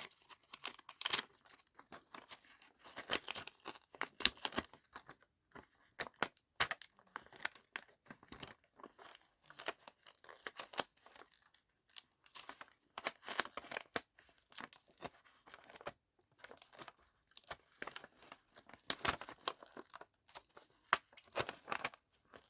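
Paper crinkling and rustling in short, irregular crackles as a thin, papery sticker is slowly peeled off its backing sheet by hand.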